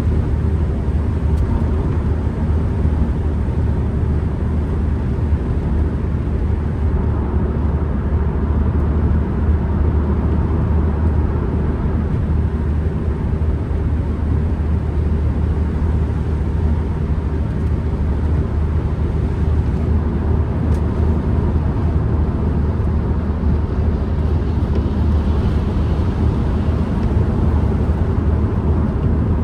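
Ford Transit Connect van driving at a steady pace, heard from inside the cabin: a constant engine and road rumble, heaviest in the low bass.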